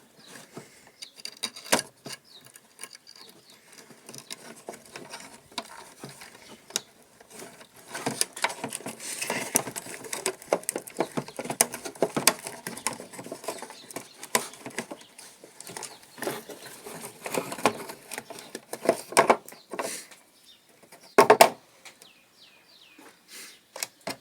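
Hands and tools handling electrical wiring and fittings: irregular clicks, taps and scraping, busier in the middle, with one louder knock about three seconds before the end.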